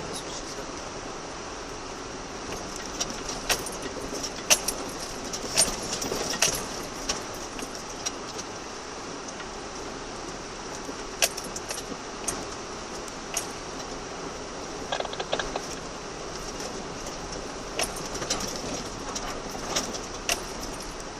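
Steady running noise heard from inside a car on a rough off-road track, with scattered sharp clicks and rattles at irregular intervals, like loose items jangling and stones knocking.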